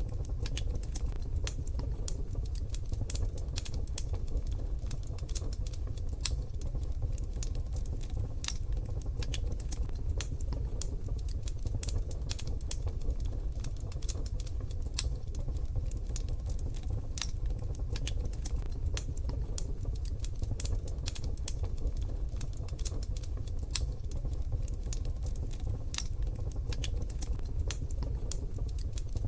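Wood fire in a wood-burning stove crackling: many irregular sharp snaps and ticks over a steady low rumble.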